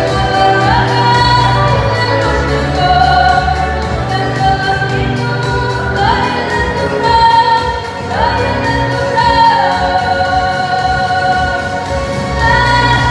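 Singing of a Ukrainian song with instrumental accompaniment, long held notes that slide between pitches over a steady bass.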